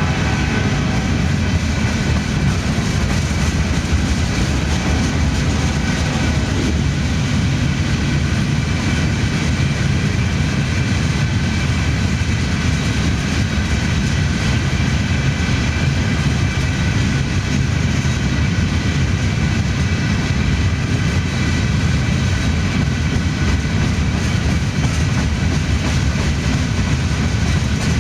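Empty freight hopper cars of a long unit train rolling past on the rails: a loud, steady wheel-on-rail noise, heaviest in the low end, with a faint high ringing tone that fades out in the first few seconds.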